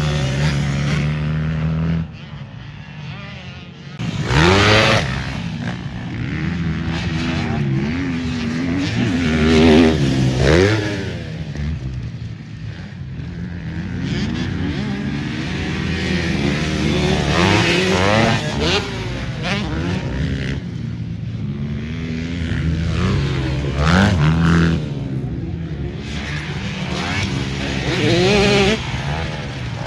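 Motocross motorcycles racing, engines revving up and dropping back again and again as the riders accelerate and shift, with the sound swelling loudly several times as bikes pass close.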